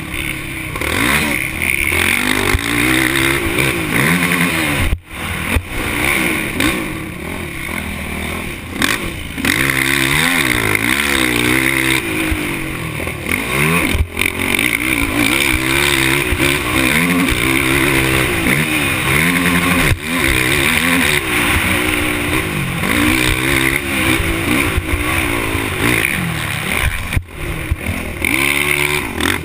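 Off-road racing engine revving up and dropping back over and over as it is ridden hard round a motocross track, with loud wind noise.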